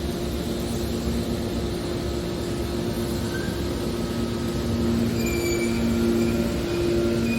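Hydraulic metal can baler running: a steady machine hum with two constant low tones, growing slightly louder, and a few short faint squeaks in the second half.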